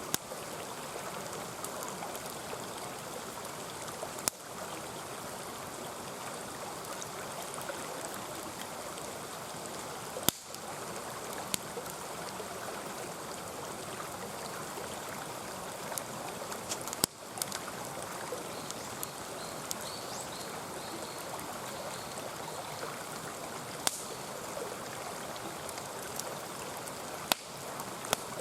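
Mountain stream rushing and burbling steadily, with a sharp crackle or pop from a burning wood campfire every few seconds.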